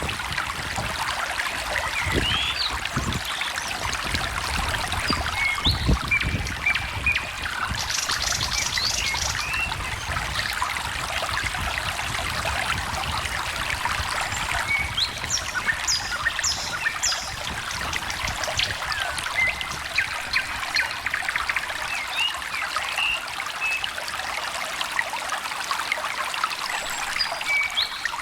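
Small stream trickling and babbling steadily over stones, with songbirds chirping and whistling at intervals over it. A few dull low thumps come in the first several seconds.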